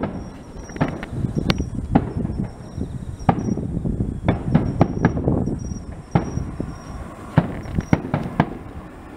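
Aerial fireworks bursting overhead: a string of irregularly spaced sharp bangs and crackles over a continuous low rumble.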